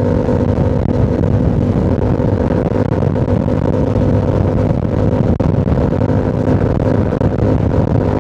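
2025 Yamaha R7's 689 cc parallel-twin engine through a Yoshimura AT2 full exhaust, running at steady cruising revs over a low rumble.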